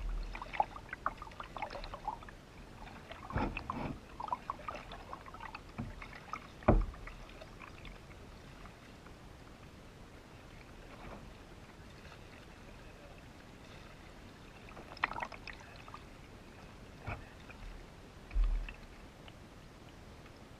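Canoe paddling: irregular splashes of paddle strokes in the water with a few sharp knocks, busiest in the first several seconds, then quieter with occasional strokes near the end.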